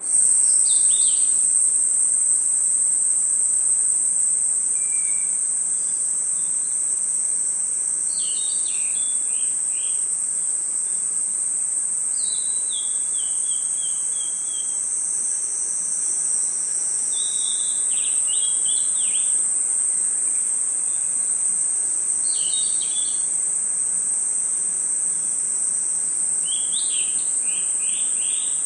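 Crickets and other night insects trilling in a steady, high-pitched drone, with short phrases of falling bird chirps breaking in every four or five seconds.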